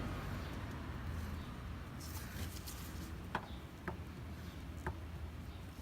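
Flathead screwdriver turning a plastic oil drain plug into the oil pan, giving three faint small clicks about half a second to a second apart over a low steady hum.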